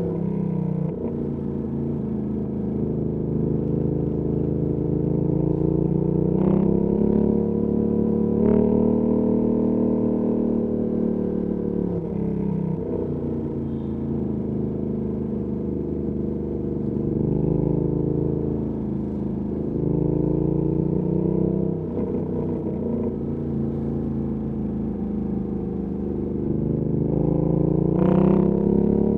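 Ducati Panigale V2S V-twin engine through a Termignoni exhaust, ridden in city traffic: the engine note climbs and falls again and again with the throttle, with a few short breaks in pitch between gears. The loudest climb comes near the end.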